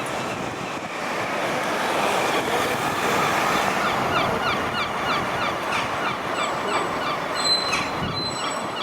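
1966 Scania Vabis BF56 bus running, a steady mechanical rumble and road noise that grows louder about two seconds in. Midway, a quick series of short squeaky chirps repeats several times a second, and near the end come brief high thin squeals.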